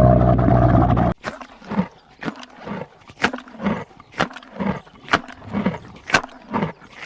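A wild animal's low, loud call cuts off about a second in. It is followed by a run of short repeated calls, about two a second.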